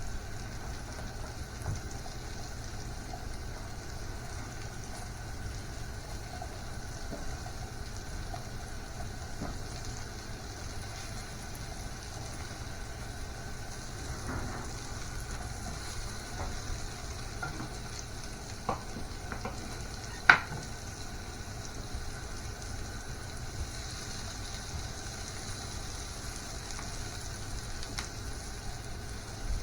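Food frying in a pan, a steady sizzle, with a few light clicks and one sharp knock about twenty seconds in.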